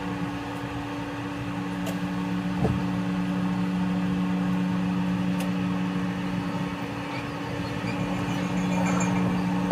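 Steady hum of a train from inside the rear of the car, carrying two unchanging low tones with a few faint clicks; the recording is sped up three times.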